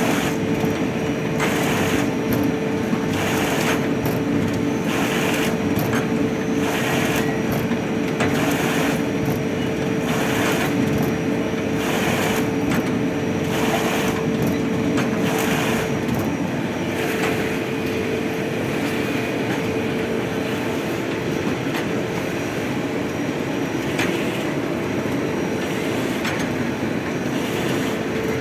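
Servo-driven plastic sewing machine running: a steady mechanical whine under a constant rattle, with louder noisy pulses about every one to two seconds. The whine drops out briefly about halfway through.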